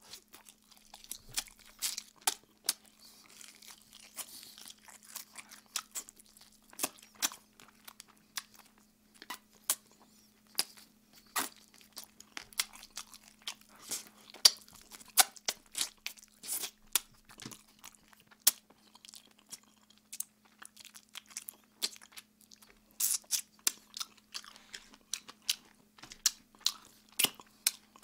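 Close-miked chewing and biting into Kyochon Red Combo fried chicken, spicy-glazed wings and drumsticks, with irregular crunches and wet mouth clicks that come thicker near the end.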